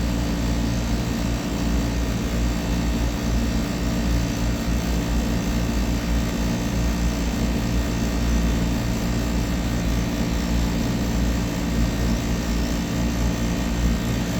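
Air-conditioning compressor running with a steady, noisy hum made of several fixed tones, in a system that is not cooling.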